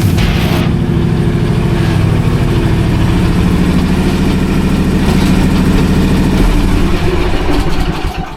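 Small gasoline engine of lawn equipment running steadily and loud, with a brief hiss right at the start; the sound drops away just before the end.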